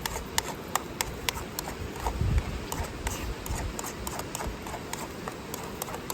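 A utensil clicking and scraping against a frying pan as scrambled eggs are stirred, in quick irregular taps. Low wind buffeting on the microphone, strongest about two seconds in.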